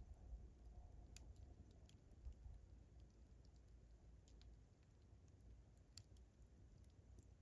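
Faint campfire crackling: sparse, irregular sharp pops of burning wood over a low steady rumble.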